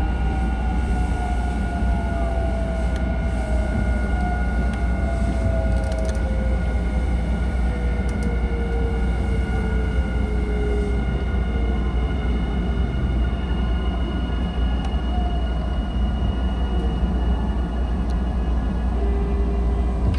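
Nankai Main Line electric train running with a steady low rumble. Its motor whine falls in pitch over about ten seconds as the train slows toward the station, with steady high whines above.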